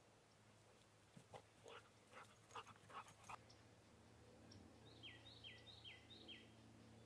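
Near-silent outdoor porch with a steady low hum. A few soft clicks and smacks in the first half, then a bird calls four short falling notes near the end.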